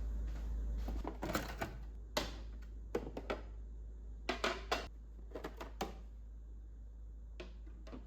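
Irregular light clicks and knocks, a few at a time, of food containers and packets being handled and set down while a freezer is sorted.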